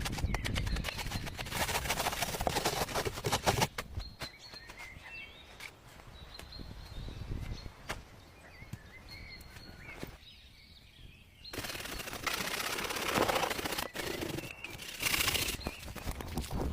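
A rapid run of knocks and crackles, with small birds chirping in between and bursts of rustling later on.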